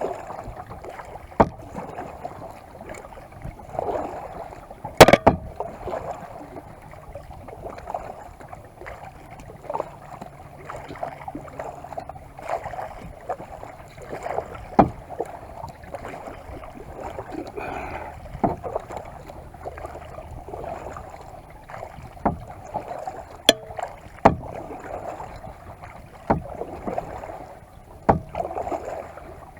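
Kayak being paddled: water splashing and dripping from the paddle strokes, with sharp knocks here and there, the loudest about five seconds in and two more close together near the three-quarter mark.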